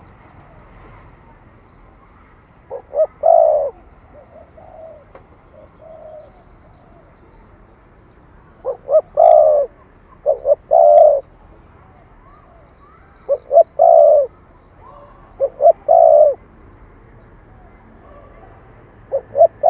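Spotted dove cooing: about six phrases, each of two short notes then a longer, deeper coo, separated by pauses of a few seconds, with fainter coos in between.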